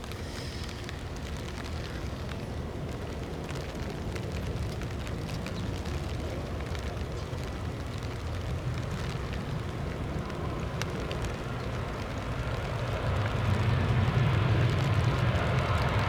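Strong wind rumbling on the microphone, with a jet airliner's engines on approach growing louder over the last few seconds.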